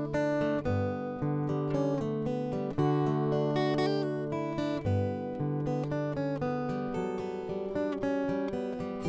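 Solo acoustic guitar improvisation: plucked notes ringing over low bass notes that change every couple of seconds.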